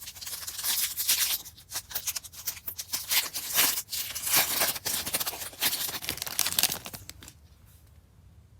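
Foil wrapper of a trading-card pack crinkling and tearing as it is opened by hand, a dense crackle lasting about seven seconds and stopping suddenly near the end.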